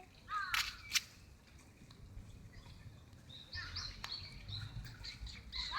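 Small birds chirping in short, quick calls, a cluster about half a second in and another around three and a half seconds in, with a few sharp clicks.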